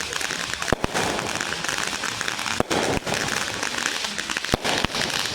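Fireworks going off: a dense, continuous crackle with several sharp bangs spread through it.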